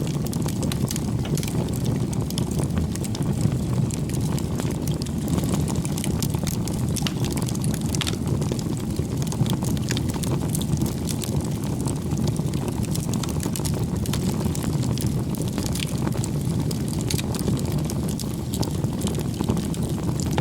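Wood bonfire burning, a steady low rush of flame with frequent sharp crackles and pops of the burning wood.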